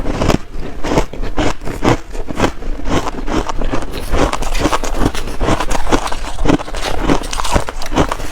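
Shaved ice being bitten and chewed in big mouthfuls: a loud, continuous run of crunching and crackling, several crunches a second.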